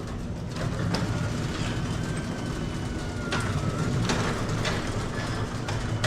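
Liftmaster 98022 garage door opener running, its motor driving the door along the rail with a steady hum, a faint whine and scattered clicks and rattles.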